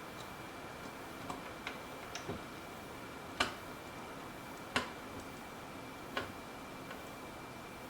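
Small hand screwdriver driving a screw into a plastic appliance base: a few light clicks, then three sharp clicks about a second and a half apart as the driver turns and is regripped.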